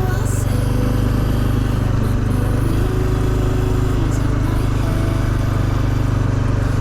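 Honda CT125 Hunter Cub's 125 cc single-cylinder four-stroke engine running steadily under way.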